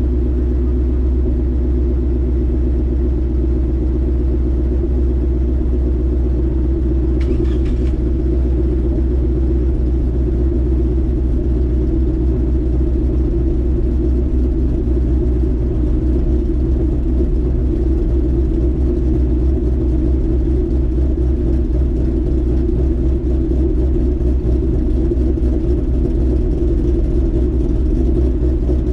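Car engine fitted with a ghost cam idling after a cold start, a steady low rumble.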